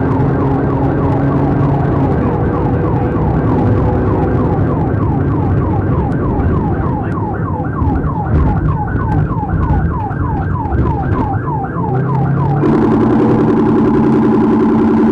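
Police car siren wailing in a fast yelp, its pitch sweeping about three to four times a second, over the low rumble of a vehicle; near the end the yelp stops and a steadier, lower, buzzing tone takes over.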